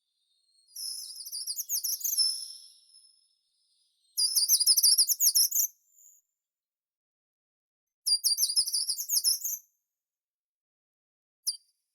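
A songbird singing three short phrases of fast, very high, rapidly repeated notes, with pauses of a couple of seconds between them. A single short high note follows near the end.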